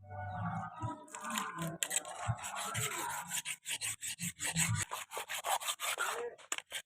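Abrasive rubbing strokes in quick succession, like hand filing or sanding, coming faster towards the end at about six strokes a second.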